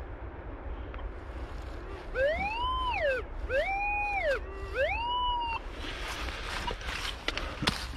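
Metal detector (Minelab Vanquish 440) signalling on a buried target three times as the coil is swept over it: each tone rises, holds and falls, about a second each. After that come scraping and digging sounds in the soil, with a few sharp knocks near the end.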